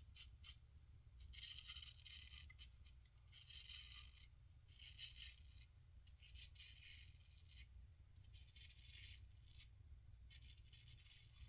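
Safety razor strokes against the grain, the blade faintly scraping through lathered stubble about six times, each stroke a short scratchy rasp.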